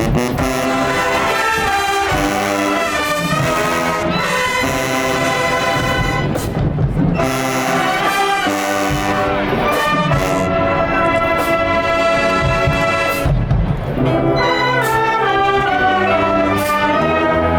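Brass band playing a full, loud arrangement, with trumpets and trombones holding sustained chords that change every second or so.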